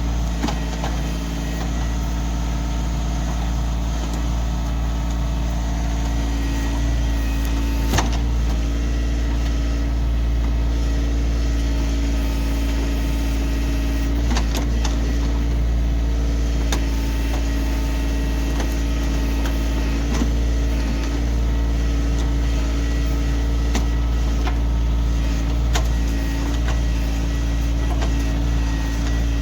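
Kioti CK2610 tractor's three-cylinder diesel engine running steadily while working the backhoe, with a sharp knock about eight seconds in and a few fainter ones later.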